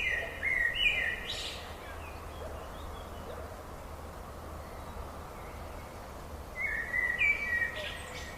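Wild birdsong: two bouts of short, clear whistled notes, one at the start and one near the end, over a steady low hum.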